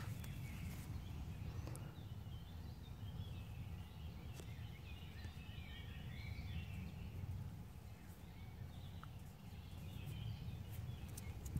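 Birds singing faintly in the background over a low, steady rumble on the phone's microphone.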